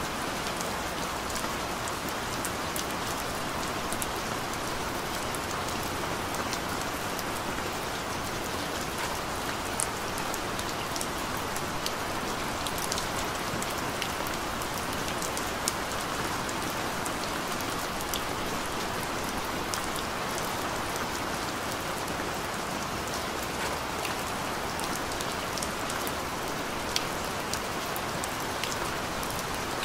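Steady rain falling: an even hiss with many small drop ticks scattered through it and a few sharper drops standing out.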